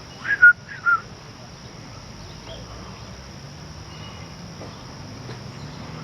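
A person whistling three short, loud notes, each dipping slightly in pitch, within the first second, then a faint steady outdoor background.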